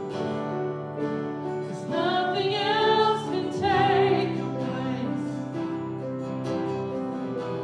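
Worship song: a singing voice with vibrato, strongest between about two and four and a half seconds in, over sustained instrumental chords.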